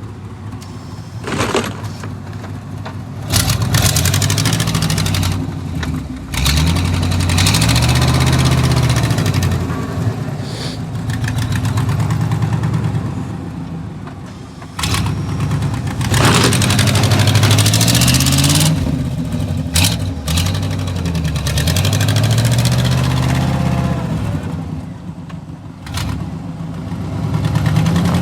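A car engine revved hard again and again, its pitch climbing and falling in repeated surges, as the vehicle tries to drive free of the snow where it was stuck.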